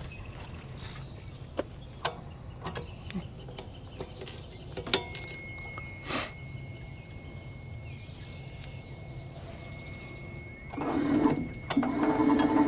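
Scattered light clicks and knocks over a low background. Then, near the end, the Wood-Mizer LT35HD sawmill's powered carriage drive whines up, drops out for a moment, and runs steadily as the mill head is driven back along the track.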